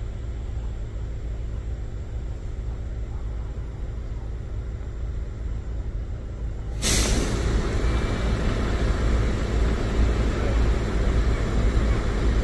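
Train at a railway station: a low steady rumble, then about seven seconds in a sudden, louder rushing hiss that carries on.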